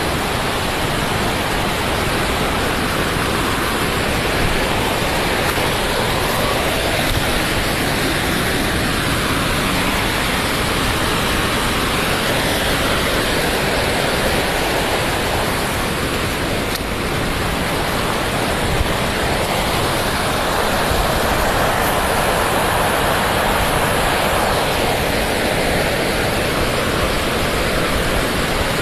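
Steady, loud rushing noise with no distinct events, swelling and easing slightly over the seconds.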